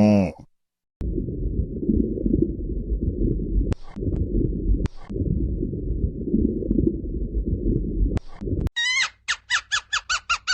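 Animal sounds: a long, low, rough rumbling that breaks off twice, then near the end a quick run of high squeaking calls, each sliding downward, about four a second.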